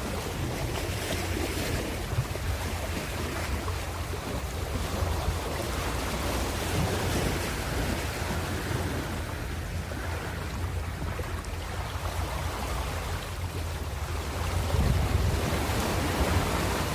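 Ocean waves breaking and washing on a shore, a continuous rush with a deep rumble that swells and eases, growing louder near the end. Wind buffets the microphone.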